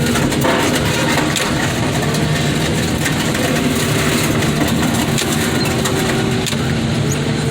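Heavy wheel loader's diesel engine running steadily, with a few faint knocks.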